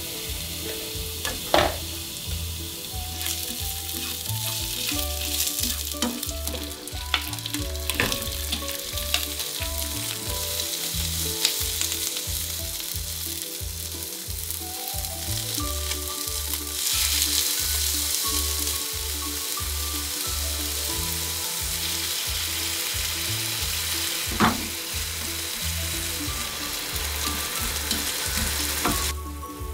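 Yellowtail pieces, garlic, lotus root and leek sizzling steadily as they fry in oil in a frying pan, with a few sharp clicks of the tongs turning them. The sizzle grows brighter for a couple of seconds just past the middle.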